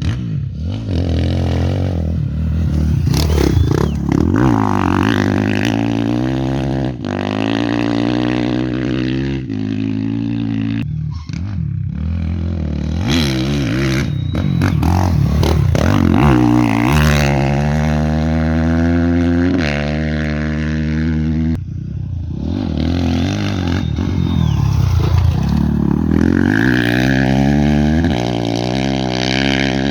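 Off-road race motorcycles going by at speed, engines revving up and down through the gears, with the pitch climbing and dropping as bikes approach and pass several times.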